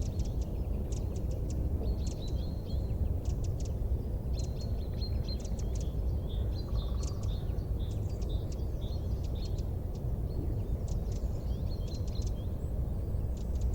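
Small birds chirping in quick repeated calls over a steady low rumble.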